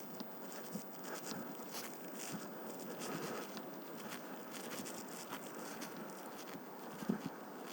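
Strong gale-force northeasterly wind rushing over the microphone in a steady noisy haze, with scattered crackles and a single thump about seven seconds in.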